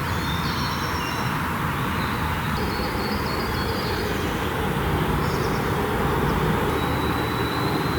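Steady rushing noise, with faint short high chirps now and then.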